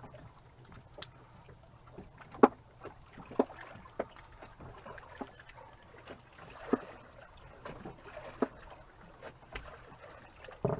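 Scattered sharp knocks and clatters in a small fishing boat, the loudest about two seconds in, over a low steady background rumble, while a freshly caught snapper is handled on board.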